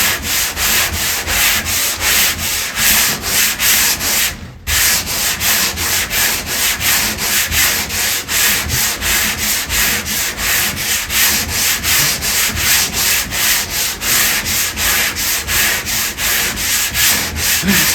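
Hand sanding across a plank seam on a wooden boat hull, quick back-and-forth rasping strokes about three a second, with a brief pause about four and a half seconds in. The sanding works the filled join down so the planks meet in a fair line.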